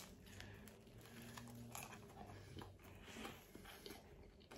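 Faint chewing of a mouthful of pizza topped with French fries, with scattered soft clicks.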